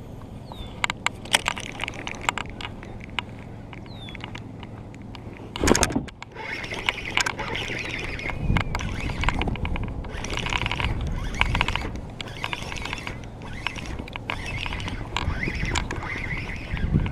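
Small knocks and clicks against a kayak's hull while the boat rides on the water, with one louder knock about six seconds in. After that comes a steadier rushing with a low rumble.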